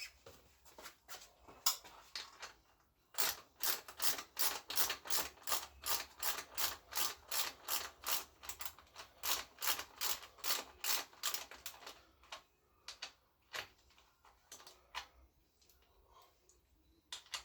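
Hand ratchet clicking through a steady run of strokes, about three a second, for roughly nine seconds, with a few scattered clicks and knocks before and after.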